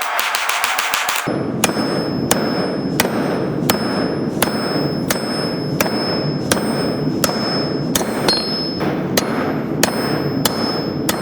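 Hand hammer forging hot steel on an anvil. A very fast flurry of blows for about the first second, then steady blows about every 0.7 s, each with a high metallic ring from the anvil, over a steady rushing background.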